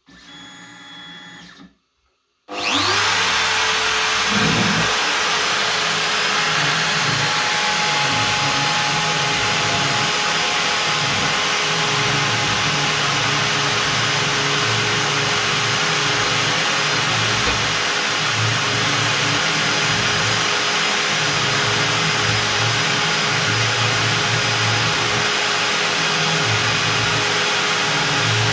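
Stepcraft M1000 CNC router's spindle running at 25,000 rpm with a 4 mm up-down compression bit milling through beech: a loud, steady noise with a steady hum, starting suddenly about two and a half seconds in. Before it comes a brief, quieter sound with a few steady tones, then a moment of silence.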